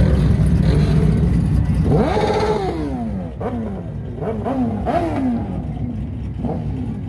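Car engine revving: a low engine rumble, then one rev about two seconds in that falls back, followed by three or four quick throttle blips, each dropping off again.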